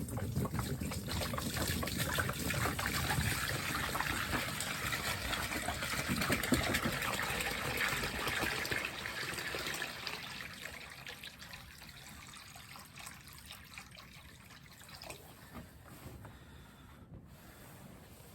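Water poured from a jug into a bird's water bowl: a steady splashing trickle that tapers off about ten seconds in.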